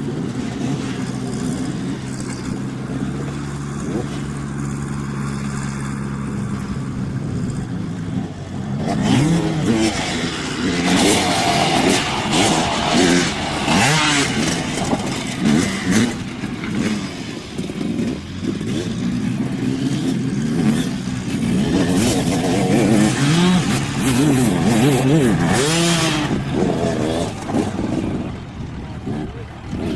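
Dirt bike engines. For the first several seconds a steady engine drone; from about nine seconds in, a bike revs up and down close by, its pitch rising and falling repeatedly. It eases off for a while midway, then revs hard again and fades near the end.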